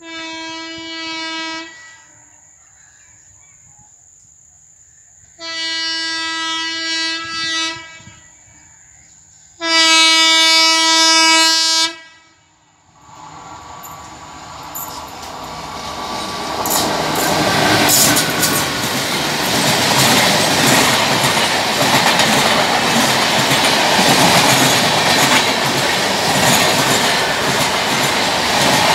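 Indian Railways electric locomotive sounding its horn three times, each blast about two seconds long and the third the loudest. Then the train of LHB coaches runs past close by, a rising rumble of wheels with clickety-clack over the rail joints.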